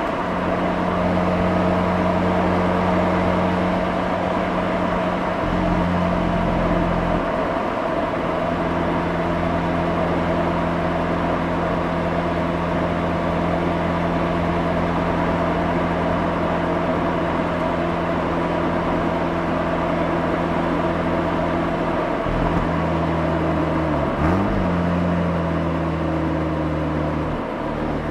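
Mazda RX-8's two-rotor Renesis rotary engine and exhaust running at steady revs while cruising, over tyre and road noise, heard from the rear bumper. About four seconds before the end the pitch drops briefly and comes back up.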